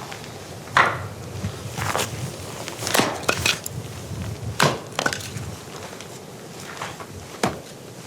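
A run of irregular knocks and clatters, about eight in all, the loudest a little under a second in, around three seconds in and just before the end.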